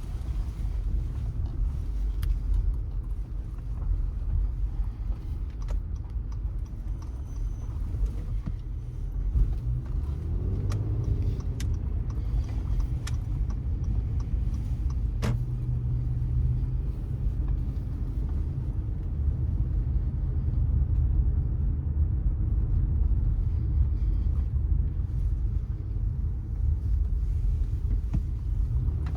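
Car driving along city streets: a steady low rumble of engine and tyres on the road, with a few sharp clicks or knocks, the clearest about halfway through.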